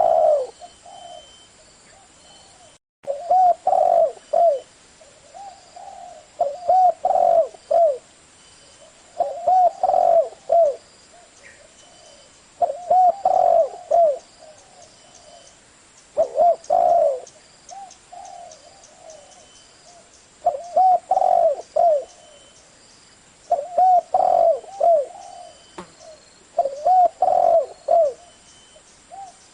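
Spotted dove cooing: a short phrase of a few low, rounded notes, repeated about every three to four seconds. It is an edited recording made for training newly caught doves, with a brief cut in the sound about three seconds in.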